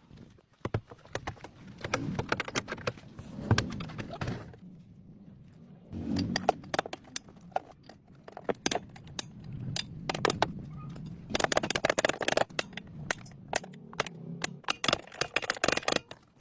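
Irregular sharp knocks, clicks and clanks of hand tools working on metal car parts, with a short pause about four and a half seconds in and a dense run of quick clicks near the end.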